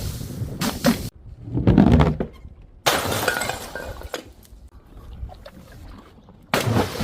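Glass bottles breaking one after another. A run of quick sharp knocks comes first, then a heavy low crash about two seconds in. Sudden shattering crashes follow about three seconds in and again near the end, each trailing off.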